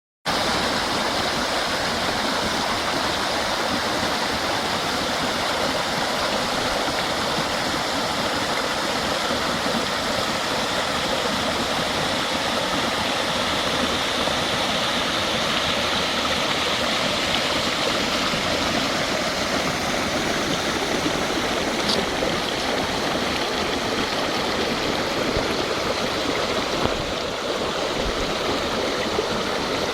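Water rushing steadily, like a stream, from a combined sewage and storm-water outfall discharging onto the beach after a storm.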